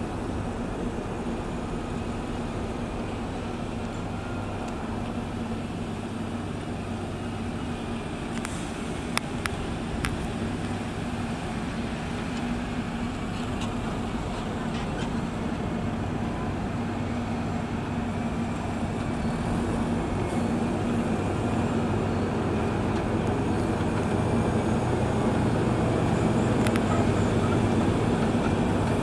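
Heavy road-construction machine's diesel engine running steadily, growing slowly louder in the second half, with two sharp clicks about nine and ten seconds in.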